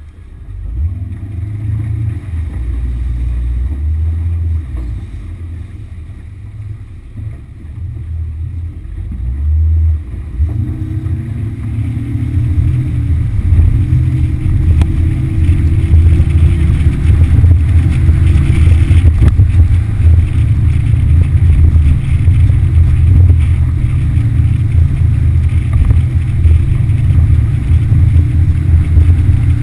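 Yamaha F60 four-stroke outboard motor running on a moving boat: uneven and quieter at first, then picking up about a third of the way in and holding a steady, louder run.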